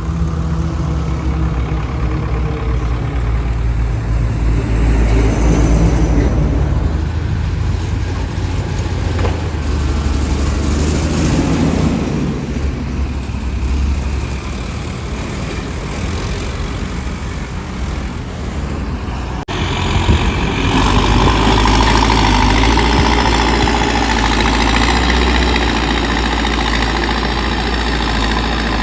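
Heavy diesel engines of a JCB backhoe loader and a tipper truck running steadily. The sound changes abruptly about two-thirds of the way through, becoming louder in the middle and upper range.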